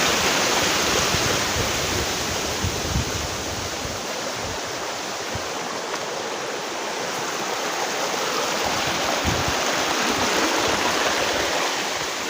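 Steady rush of water falling and running in a small waterfall and stream, with now and then a low rumble.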